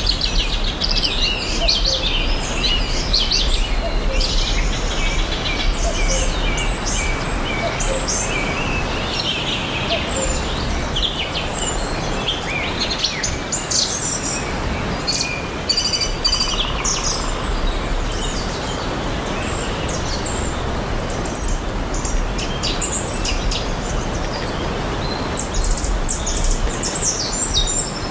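A chorus of songbirds chirping and trilling over one another, over a steady background hiss of outdoor ambience.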